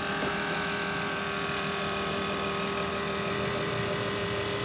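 Steady electric hum from a small motor inside a Chevy Silverado cab, with several held tones, starting suddenly and cutting off near the end.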